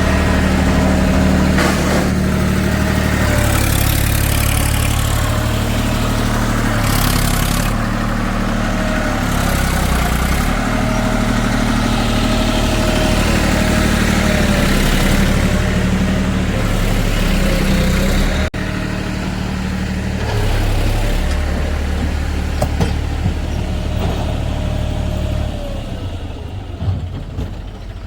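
Heavy diesel engine running, its speed stepping up and down repeatedly, with a thin whine over it; there is an abrupt break about two-thirds of the way in, and the engine sound fades near the end.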